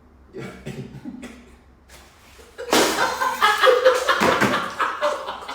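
Stifled snickers, then about two and a half seconds in people burst out laughing loudly, breaking up as they fail to hold in their laughter.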